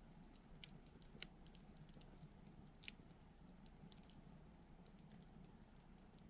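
Wood campfire crackling faintly: scattered small snaps and pops at an irregular pace, with two louder pops, about a second in and near three seconds.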